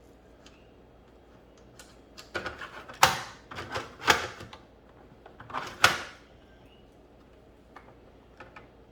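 Hard plastic toy pieces clicking and knocking together as they are handled and fitted into place: a cluster of sharp knocks from about two to six seconds in, the three loudest roughly a second apart, then a few faint clicks.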